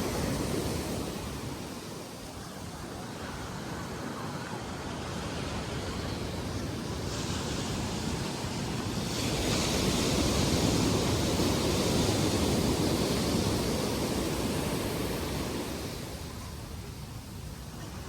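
Small sea waves breaking and washing up a sandy beach, a steady rush that swells to its loudest about halfway through and eases off near the end.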